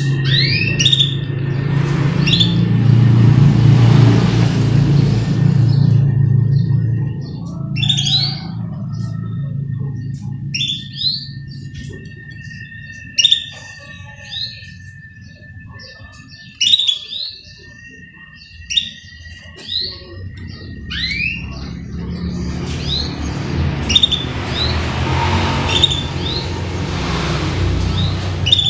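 Canaries chirping: many short, quick upward-sweeping calls, repeated throughout over a thin steady tone. A low rumble with a broad hiss swells in the first few seconds and again over the last several seconds.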